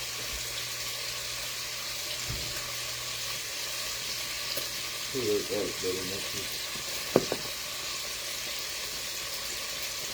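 Steady sizzle of lamb chops frying in a pan. A short hummed or muttered voice comes about five seconds in, and two sharp knocks a little after seven seconds.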